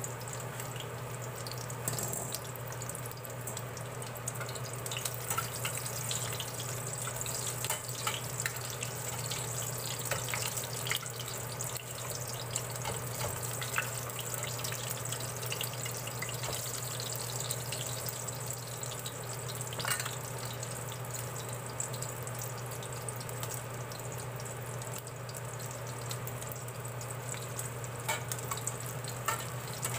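Okoy (shrimp fritters) shallow-frying in oil in a stainless steel pan: a steady sizzle with scattered crackles and pops.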